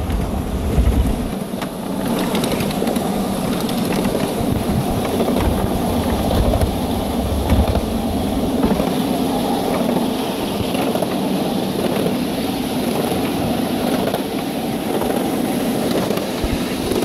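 Steady rumble and rattle of a ride-on miniature steam railway's cars rolling along the track. Wind buffets the microphone in gusts near the start and again about six seconds in.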